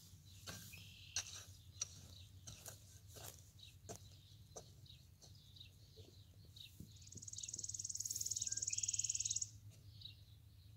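A bird's high, very rapid trill about seven seconds in, lasting about two and a half seconds, over scattered light clicks and scrapes from the soil.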